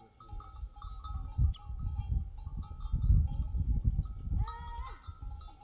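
A flock of sheep with bells ringing steadily, and one animal bleating with a rising call about four and a half seconds in. A low rumbling noise runs underneath and is loudest about three seconds in.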